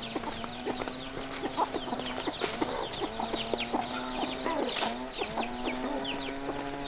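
Chickens clucking over a dense, continuous chorus of many high, falling cheeps.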